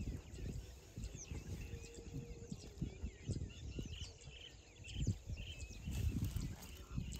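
Small birds chirping in short, quickly repeated calls, over dull low knocks and rumbling.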